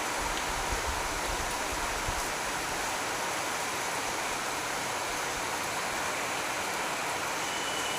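Steady rain falling, an even hiss, with a brief low rumble in the first couple of seconds.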